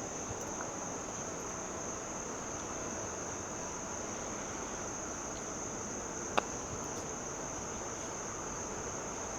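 Steady high-pitched insect chirring, with a single sharp click about six seconds in: a putter striking a golf ball.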